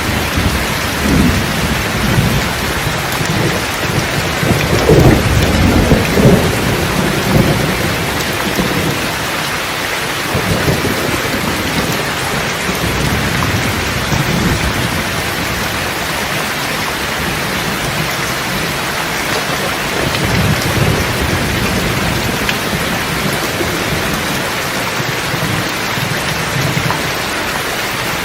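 Steady heavy rain with rolling thunder: a low rumble swells in the first few seconds and peaks about five to seven seconds in, with weaker rumbles later on.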